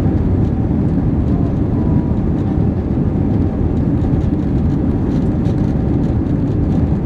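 Steady low rumble of an Airbus A321's jet engines and rushing air, heard inside the cabin.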